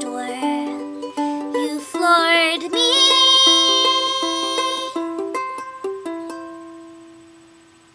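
Ukulele song ending: a woman sings the last line over plucked ukulele, holds a long final note, and the closing ukulele chord rings out and fades away.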